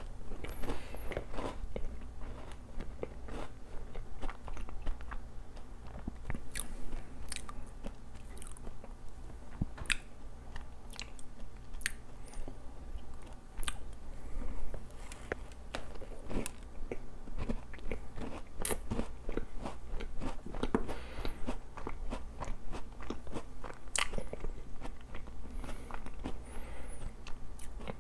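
A person biting into and chewing a cream-topped doughnut close to the microphone, with irregular sharp mouth clicks and chewing sounds.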